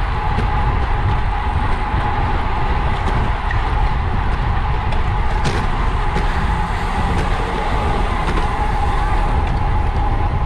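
Wind rushing over the microphone of a camera on a racing bicycle ridden at race speed, a steady loud rumble with a constant hum running through it.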